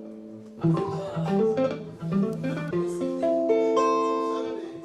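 Music led by a guitar: a quick run of plucked notes, then held chords that ring on from about three seconds in.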